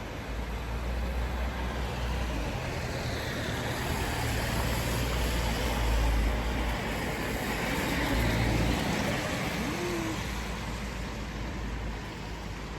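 Road traffic passing on a wet street: engine rumble and tyre hiss build up and fade, loudest about six and eight seconds in.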